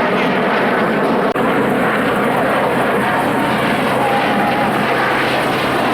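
Canadian Snowbirds' CT-114 Tutor jets flying the display, their jet engines making a loud, steady rushing sound, with a brief dip about a second and a half in.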